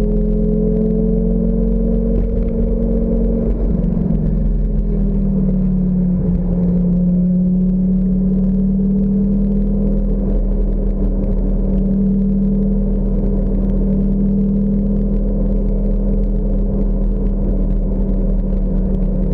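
Car engine pulling at a steady speed, heard from inside an open-top convertible with low wind rumble. The engine note dips briefly about four seconds in, then holds steady.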